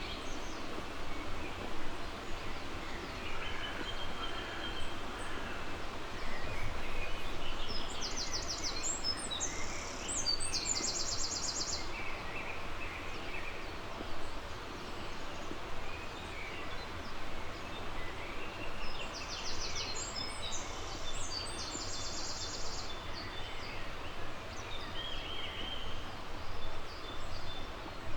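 Songbirds singing over a steady rushing background. A rapid high trill comes twice, about eight and again about nineteen seconds in, with shorter chirps between.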